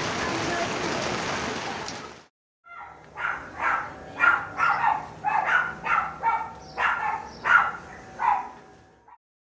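Steady rain for about two seconds, cutting off abruptly. Then a dog barks in a quick series of short, high-pitched barks, about two a second.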